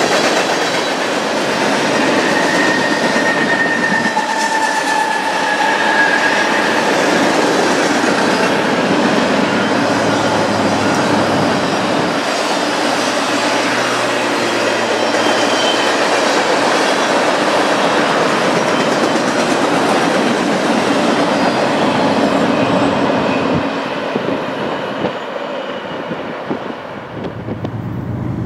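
Freight train cars rolling past, their steel wheels clattering steadily over the rail, with a brief high wheel squeal a few seconds in. The sound grows quieter near the end as the train passes.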